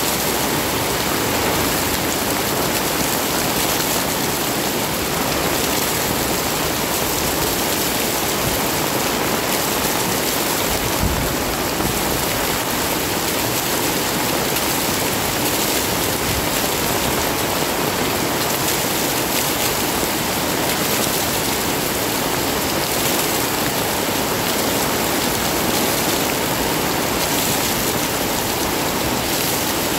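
Heavy rain pouring down steadily, a dense even hiss of water.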